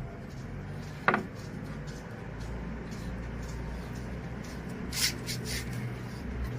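A low steady hum, with one sharp knock about a second in and a short scraping sound with a couple of smaller ones around five seconds in.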